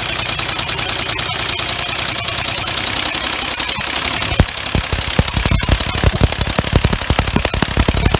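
Homemade three-cylinder compressed-air engine running on shop air, a fast steady clatter with hissing exhaust, turning about halfway through into heavy, irregular knocking thumps. The engine is badly out of balance.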